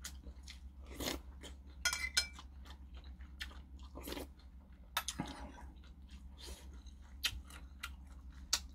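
Close-miked chewing of a spoonful of saury kimchi stew, with many small wet mouth clicks and a few light clinks of a metal spoon against a ceramic bowl.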